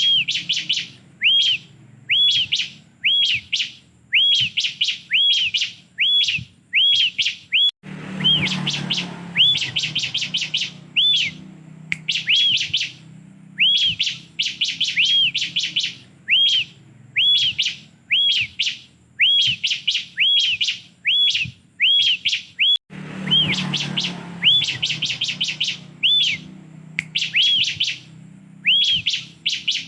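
Ciblek (bar-winged prinia) singing: quick bursts of short, arched, high chirps repeated over and over. A short burst of noise sounds under the song twice, about eight seconds in and again near twenty-three seconds.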